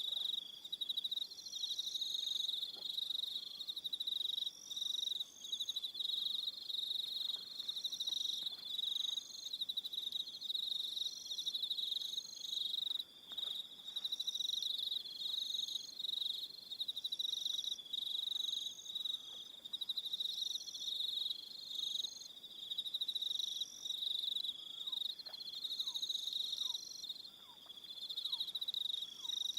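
Evening chorus of crickets: a dense, continuous high-pitched trill, with a second, higher insect call repeating in short bursts about every second and a half. Faint short falling calls come in near the end.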